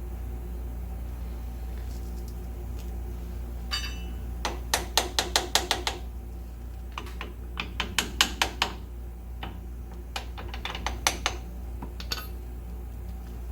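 Ratchet wrench clicking in three short runs of rapid metallic clicks, over a steady low hum.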